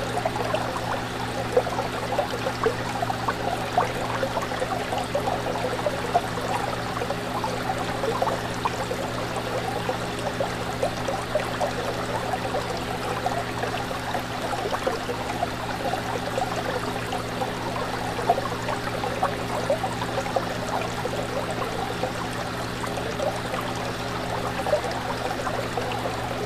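Fish tank water bubbling and trickling without a break, a dense fizz of small pops and splashes, over a steady low hum.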